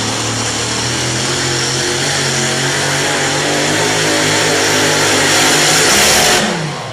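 High-horsepower pulling engine running flat out under load at a steady pitch, slowly getting louder. It drops off sharply shortly before the end as the power cuts.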